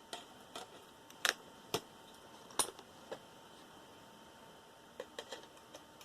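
Irregular sharp clicks and taps of small metal hand tools and parts being handled while copper wire is picked out of a dismantled computer's components. About ten clicks in all, with a pause of a couple of seconds near the middle.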